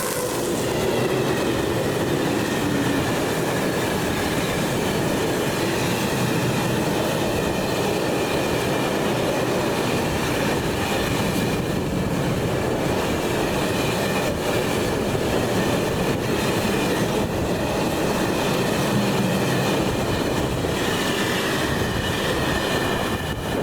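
Train rolling past on the track: a steady rush of wheels on rails with a faint clatter of rail joints and a thin, high, steady wheel squeal.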